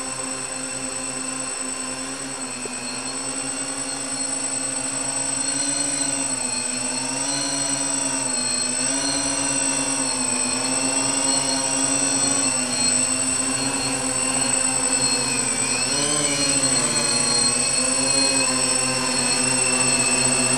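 Multirotor hum from a quadcopter's four Altigator A3540 brushless motors spinning 14-inch Graupner props in flight. The pitch wavers up and down as the motor speeds are adjusted, with one clear dip and recovery late on. It grows louder over the first few seconds, and a thin steady high whine sits over it.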